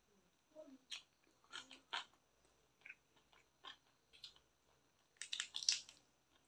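Close-up mouth sounds of chewing a bite of curried chicken drumstick: separate wet smacks and clicks a second or less apart. About five seconds in, a louder, denser run of clicks comes as the drumstick is torn apart by hand.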